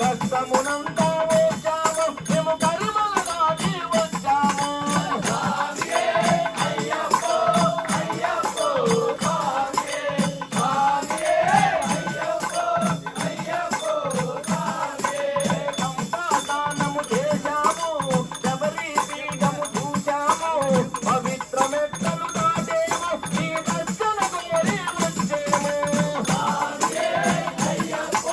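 Ayyappa devotional bhajan music: a wavering melody over a fast, continuous rattling percussion accompaniment.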